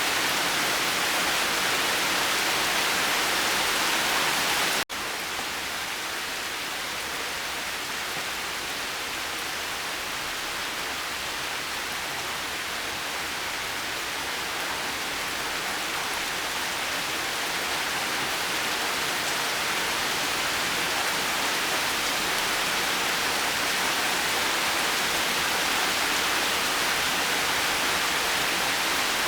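Steady rain falling, a dense even hiss. About five seconds in it cuts out for an instant, as at an edit, and comes back a little softer, slowly building up again over the following fifteen seconds.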